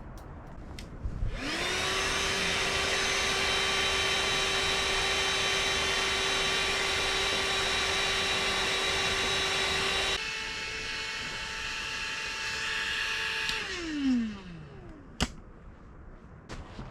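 A small electric motor appliance spins up and runs at a steady high speed, drops to a lower setting about ten seconds in, then winds down with a falling whine and stops, followed by a sharp click.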